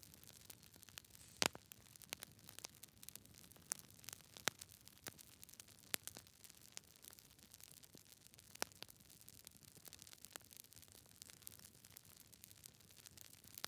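Logs burning in a fireplace, crackling with irregular sharp pops and snaps over a faint steady hiss. The loudest pop comes about a second and a half in.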